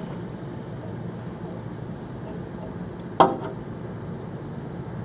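An adjustable wrench working the nut on a split AC outdoor unit's fan blade: a sharp click and then a metallic knock about three seconds in, over a steady background hum.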